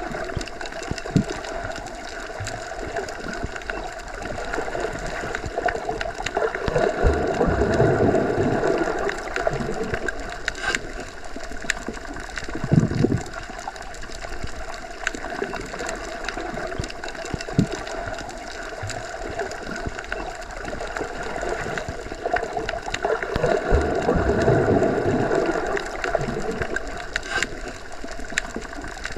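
Underwater ambience, the sound heard when submerged deep in a pool or lake: a steady rushing water noise that swells slowly twice, about 8 and 24 seconds in, with scattered faint clicks.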